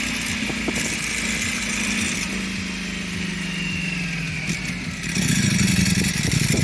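Ducati superbike engine running on the move under a steady hiss. Its note drops about two seconds in and climbs again near the end.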